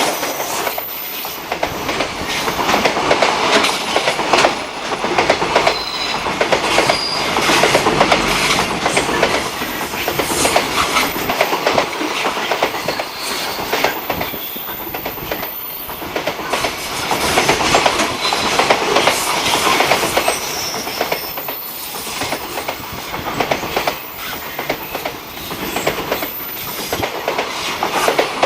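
A train passing close by, its wheels clattering over the rail joints in a dense, fast stream of clicks over the rumble of the cars.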